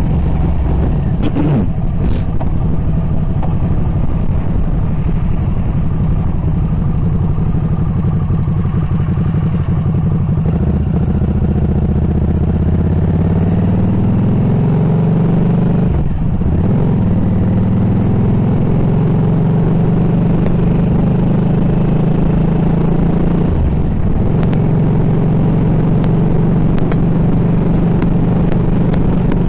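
Harley-Davidson Nightster's liquid-cooled 975 cc V-twin running under way, heard from a handlebar-mounted camera. The engine pitch climbs as it pulls harder in the middle, dips briefly about sixteen seconds in, then holds steady.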